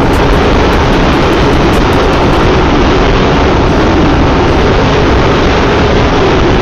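Steady rush of wind and road noise on a motorcycle at speed, with the low drone of the Yamaha FZ V3's single-cylinder engine underneath.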